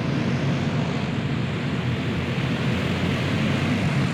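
A field of dirt racing karts with small single-cylinder four-stroke clone engines running hard together on a restart, a steady, dense engine drone.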